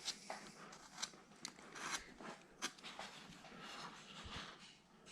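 Hand carving gouge slicing small cuts into a wooden figure: a handful of faint, short scraping snicks, a few at roughly half-second gaps.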